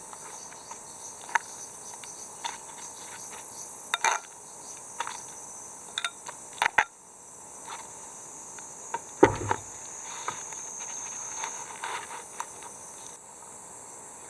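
Insects chirring steadily in a high band, with scattered clicks and knocks from things being handled; the loudest is a dull thump about nine seconds in.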